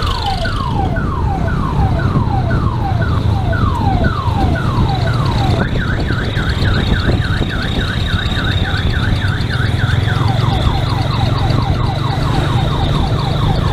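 Electronic siren on an odong-odong tourist minibus cycling through its patterns: falling wails about twice a second, then a quick up-and-down warble from around six seconds in, then rapid falling chirps near the end. The vehicle's engine runs underneath.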